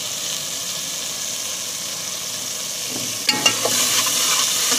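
Onions and garam masala frying in oil in a metal pot, a steady sizzle. About three seconds in, a slotted metal spatula clinks and scrapes against the pot as the stirring starts, and the sizzle grows louder.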